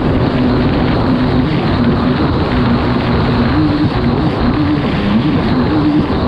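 Kawasaki STX 160 jet ski's four-stroke engine running hard at racing speed, its pitch stepping up and down every second or so as the revs rise and fall, over a steady rush of wind and water noise.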